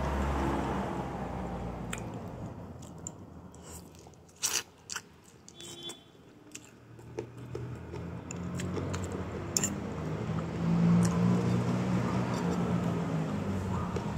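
Close mouth sounds of someone eating stewed chicken: chewing and biting, with a few sharp clicks about four to five seconds in. A low steady hum swells in the second half and becomes the loudest sound.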